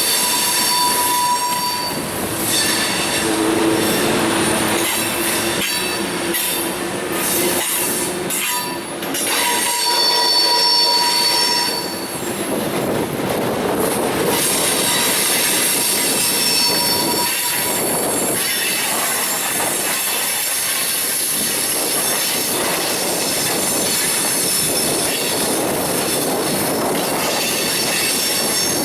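Railroad cars rolling past, steel wheels squealing against the rails in thin high steady tones that come and go, over a continuous rumble of the train.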